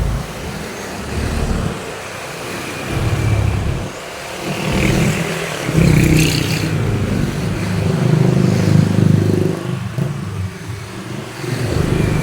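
Road traffic: motor vehicles passing one after another, engine sound swelling and fading with each pass. The longest and loudest pass comes about five to ten seconds in, with tyre hiss at its peak.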